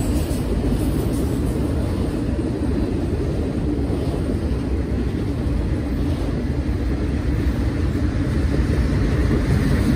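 Freight train of autorack cars rolling past at close range: a steady, continuous low rumble.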